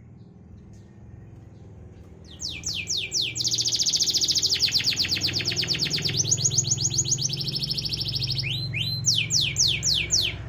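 Domestic canary singing: after about two seconds, a loud run of quick downward-sweeping whistles, then long fast trills of rapidly repeated notes, then more sweeping notes near the end. It is a canary lure song of the kind played to coax reluctant canaries into singing.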